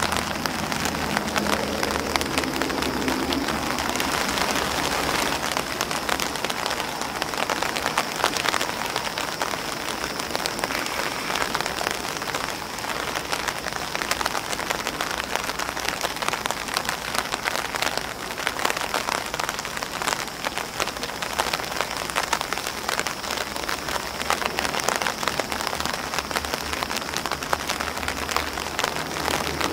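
Rain falling on an umbrella and on grass, a steady patter of many drops.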